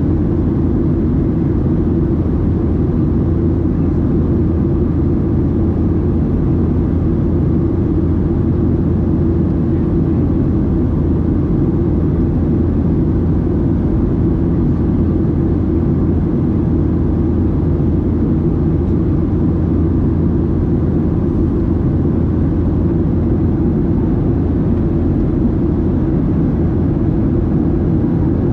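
Steady low cabin drone of a Boeing 737-700 in flight, heard from a window seat: the rush of air past the fuselage mixed with the hum of its CFM56-7B engines, unchanging throughout.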